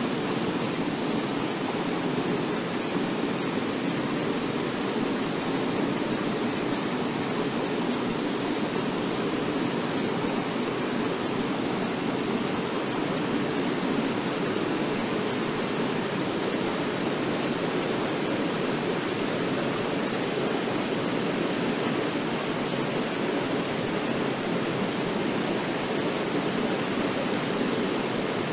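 Air-bubble washing machine running: water bubbling and churning in the tank as blown air agitates it, a steady rushing noise that does not change.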